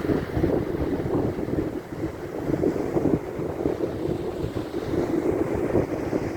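Sea wind buffeting the microphone in uneven gusts, over the rush of waves.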